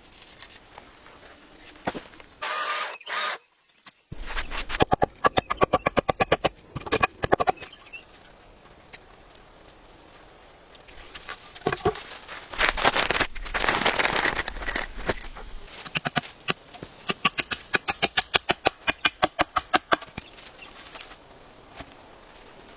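Hand tool working wood: bursts of rapid sharp knocks at about six strokes a second, with scraping and rustling in between.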